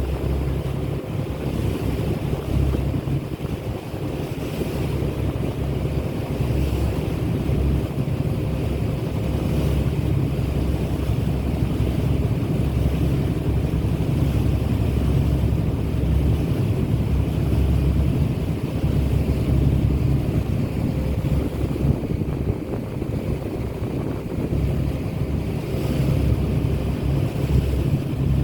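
Boat under way at sea: a steady low drone with wind buffeting the microphone and rushing water.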